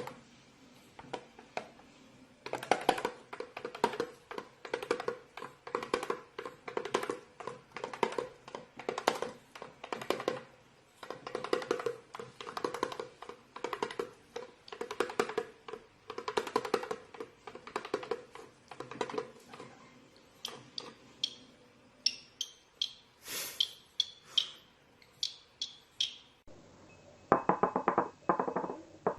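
Rhythmic wooden tapping and knocking in quick clusters with a steady underlying tone, like a percussive music loop; between about 20 and 26 seconds short high-pitched calls take over.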